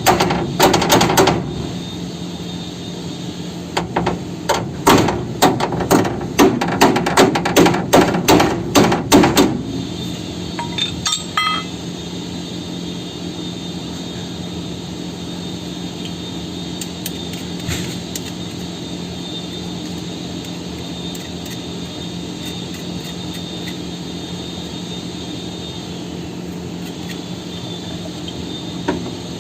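Repeated hammer blows on metal, about two a second, in two runs in the first ten seconds. After that comes a steady machine hum with a faint high whine.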